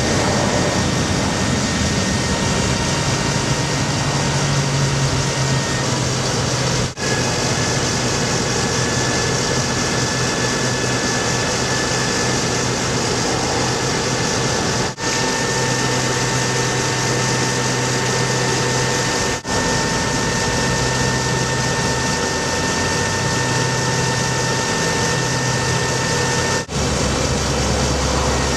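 Ford F750 bucket truck engine running steadily, with a low hum and a faint steady whine, broken by four brief dropouts where clips are cut together.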